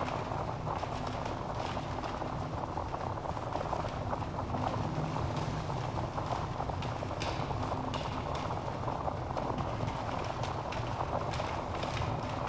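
Wood fire burning in a fireplace, crackling steadily with a constant rush of flame. Frequent small crackles, with a few sharper pops about seven seconds in and again near the end.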